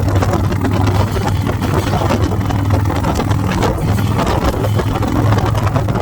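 Motorcycle engine running steadily while riding, a constant low hum with road noise.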